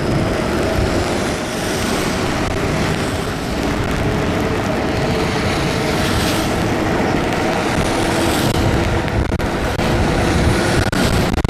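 Steady rushing road noise of an e-bike ride in heavy rain: wind and wet-road hiss with a faint steady hum underneath, swelling briefly twice, about six and eight seconds in.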